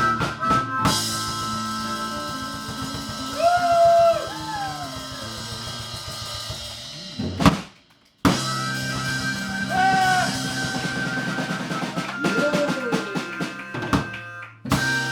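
A live blues band playing, with drum kit, a steady bass line and bent lead notes. The band stops dead together about halfway through, comes back in, and cuts off again near the end.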